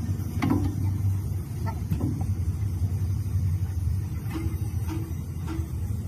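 Steady low rumble of a running engine, with a few light knocks and clicks now and then.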